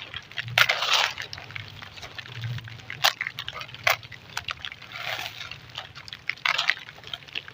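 Clumps of dry and wet golden sand crumbling, heard as gritty crunches and crackles in separate bursts. The longest break-up comes near the start and lasts about half a second, with shorter sharp cracks every second or so after it. A faint steady low hum runs underneath.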